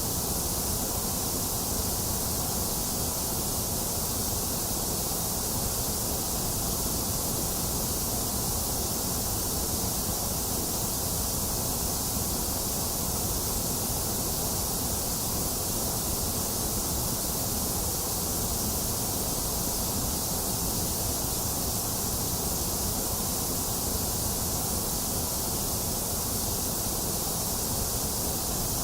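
Steady electronic white noise: a constant, even hiss with no change in level, strongest in the high end.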